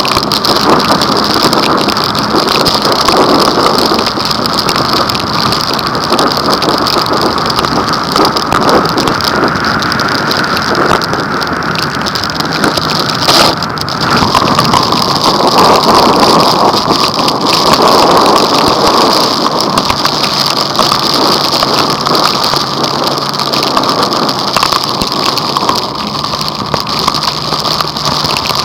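Heavy rain pouring down steadily on a moving vehicle in a violent rainstorm, with a faint engine hum beneath it. There is one sharp click about thirteen seconds in.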